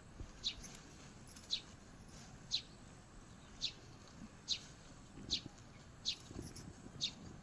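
A bird chirping over and over, short high chirps about once a second, over a faint steady hiss.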